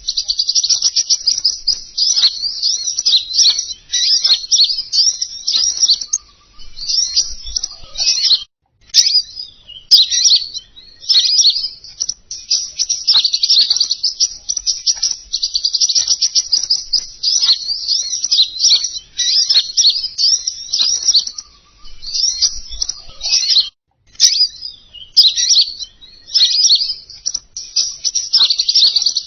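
Lure recording of the small songbird known in Indonesia as king konin, giving rapid, high twittering chirps almost without pause. The song breaks off briefly twice, about eight seconds in and near the end.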